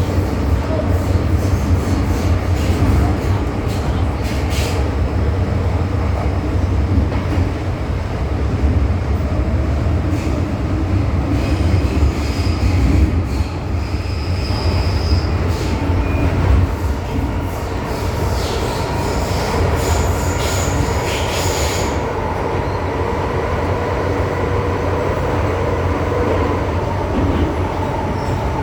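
MTR M-Train electric metro train running through the tunnel, heard on board: a steady low rumble of wheels on rail, with high-pitched wheel squeal in the middle stretch and a steady faint whine in the second half.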